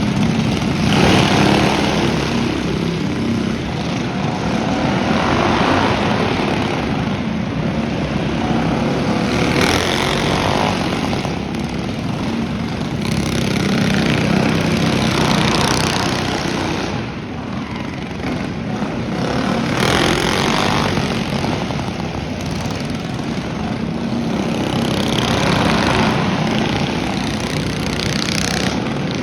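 Small single-cylinder mini bike engines running hard, the sound swelling and fading every few seconds as the bikes come past and move away again.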